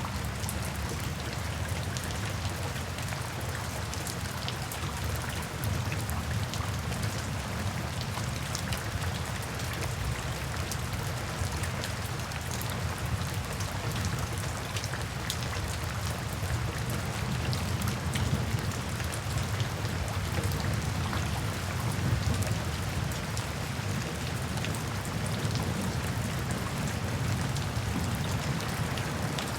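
Steady rain falling, individual drops ticking on a surface over a low, continuous rumble of heavier rainfall.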